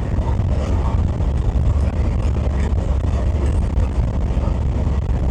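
Steady road and engine rumble inside the cabin of a moving vehicle cruising on a highway.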